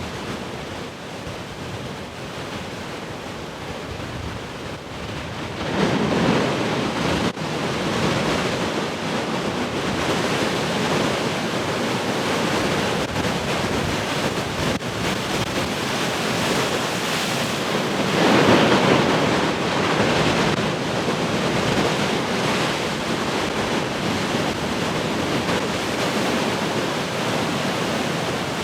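Large ocean waves breaking in heavy surf: a steady wash of water noise with two bigger waves crashing, about six seconds in and again about eighteen seconds in.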